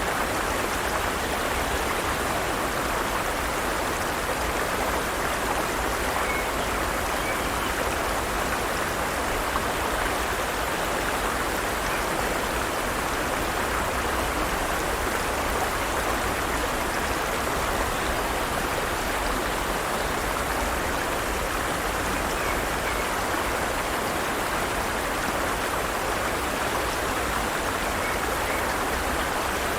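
Forest stream flowing over rocks: a steady, even rush of water that does not change.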